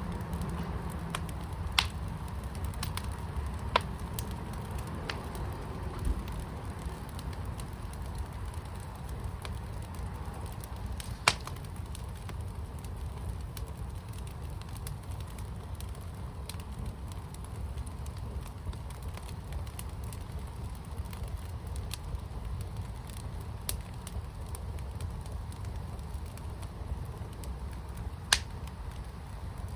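Wood fire burning in a firepit: a steady low rush with scattered sharp crackles and pops, the loudest about eleven seconds in and near the end.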